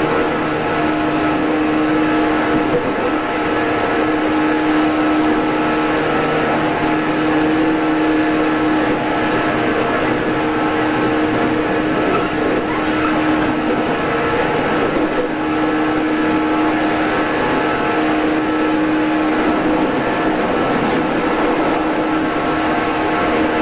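JR East 113 series electric train running at a steady speed, heard from inside the car: running noise with a steady whine from the motors and gears.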